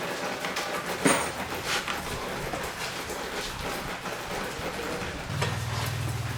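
Scattered knocks and clicks, one sharp knock about a second in, then a steady low motor hum starts near the end.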